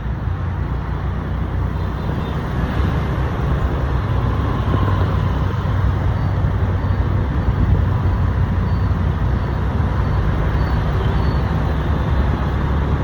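Motorbike engine running steadily while riding in city traffic, with road noise from surrounding vehicles.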